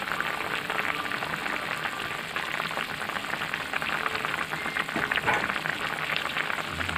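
Chopped chillies, shallots and tomato frying in hot oil in a wok: a steady sizzle full of fine crackles.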